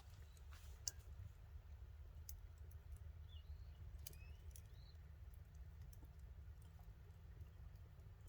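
Faint, sparse crackles and pops of a wood campfire, a dozen or so sharp snaps spread irregularly over a low steady rumble, with a few faint short chirps.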